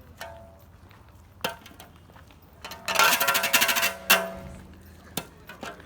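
Metal debris scraping and clanking: a sharp knock, then a loud ringing scrape lasting about a second that ends in a clank, and a lighter click near the end.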